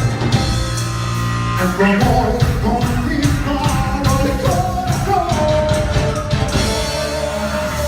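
Live cumbia band playing, a melodic lead line over a steady beat.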